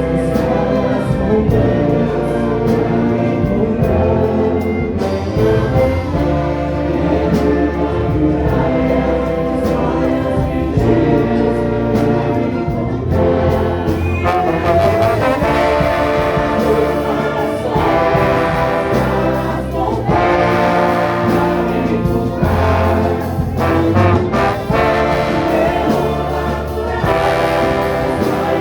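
Orchestra with a brass section of trumpets and trombones playing, with a choir singing.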